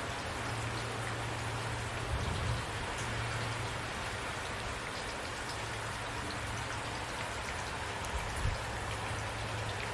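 Steady rain falling, with individual drops ticking over the even hiss. A low steady rumble runs underneath, with two brief low bumps, one about two seconds in and one near the end.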